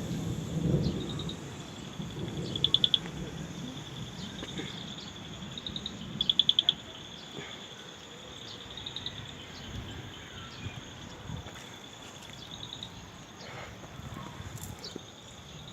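Insects calling: a steady high-pitched drone with short chirps and trills of rapid pulses every second or two, the loudest twice, about three and six and a half seconds in. A low rumble is heard in the first second.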